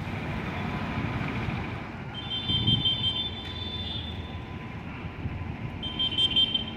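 Indian Railways WAG-9 electric locomotive hauling a MEMU rake as it approaches along the track, a steady low rumble, with a high shrill tone sounding twice: about two seconds in and again near the end.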